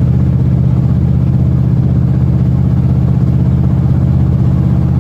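Motor vehicle engine running with a steady, unchanging low drone.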